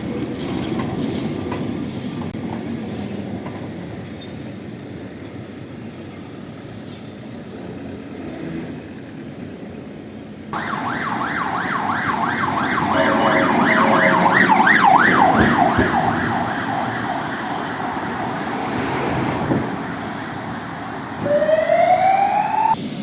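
Street noise, then about ten seconds in an emergency vehicle siren starts suddenly in a fast yelp, sweeping up and down about four times a second. Near the end a rising whine climbs and then cuts off abruptly.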